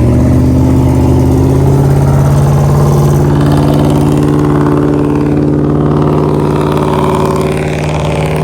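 A car engine held at a steady high rev for about eight seconds, its pitch barely changing, then cutting off near the end.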